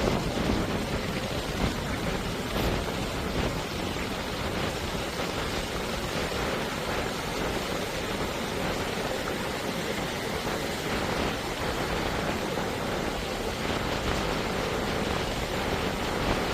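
Ocean surf washing onto a beach, a steady rushing noise without a break.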